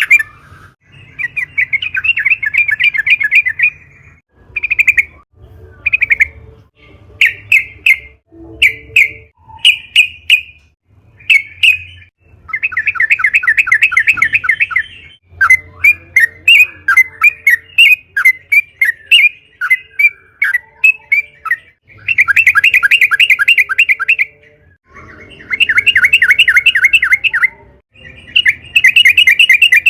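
Yellow-vented bulbul (trucukan) singing vigorously: long, fast rattling trills of a second or more, alternating with runs of short separate chirps.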